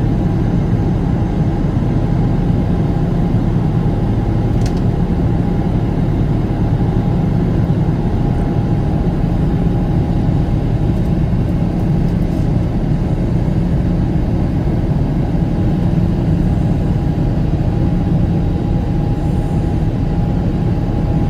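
Steady jet-airliner cabin noise in flight: the constant low drone of the engines and rushing air, with a faint steady whine above it.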